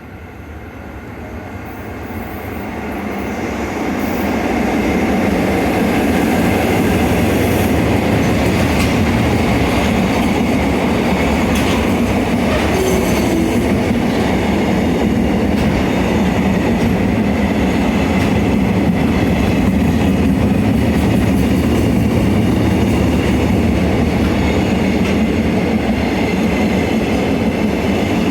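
Freight train passing through a station: the rumble builds over the first few seconds as it approaches, then holds steady as the wagons roll by, with a few sharp clicks from the wheels.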